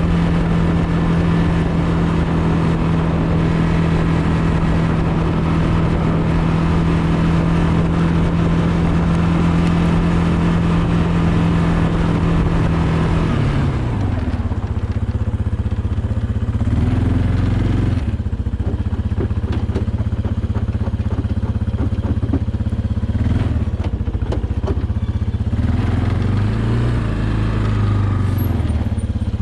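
An engine running at a steady speed, then dropping to a lower pitch about halfway through, with its pitch rising and falling a few times after that.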